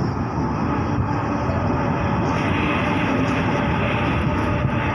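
Double-deck electric suburban train passing close by, a steady loud rumble of wheels on rail with a faint motor whine.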